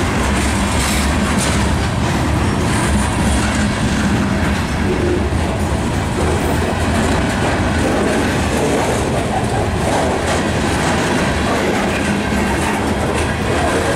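Covered hopper cars of a freight grain train rolling past close by: a steady, loud rumble of steel wheels on rail, with the wheels clattering over rail joints.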